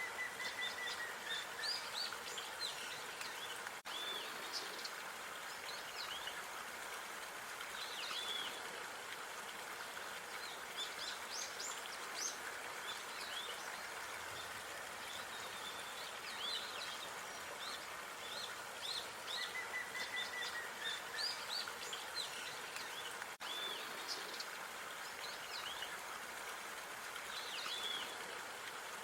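Park ambience: small birds chirping and twittering over a steady background hiss. The sound briefly drops out twice.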